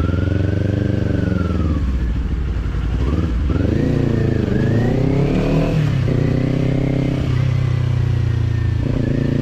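Kawasaki Z-series parallel-twin motorcycle engine with an aftermarket slip-on exhaust, riding through the gears. The engine note falls off over the first two seconds, climbs in steps between about three and six seconds, holds steady, then drops briefly and picks up again near the end.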